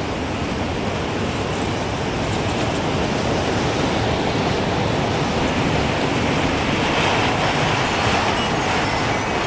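Gusting wind rushing steadily, swelling into a stronger gust from about six seconds in, with a few faint high wind-chime tinkles near the end.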